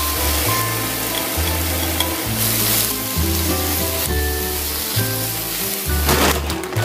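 Dried pollack skin sizzling as it is stir-fried with a wooden spatula in a hot nonstick pan, over background music with a stepping bass line. A short noisy burst comes near the end.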